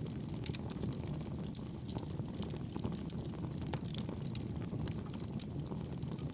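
Wood fire crackling in a fireplace: a steady low rumble of flames with frequent small, sharp pops and snaps.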